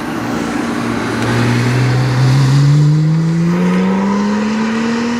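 Porsche sports car accelerating along the course, its engine note climbing steadily in pitch through a single gear and growing louder over the first couple of seconds.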